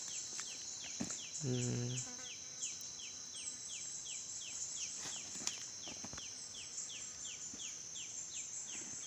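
Forest insects droning steadily at a high pitch, with a short descending chirp repeating about three times a second. A brief low hum comes about a second and a half in, and there are a few faint clicks.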